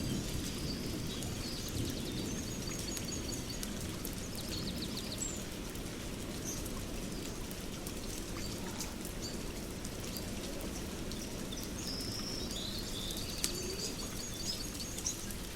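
Nature ambience: steady rain with birds chirping in short repeated trills, and scattered sharp crackles.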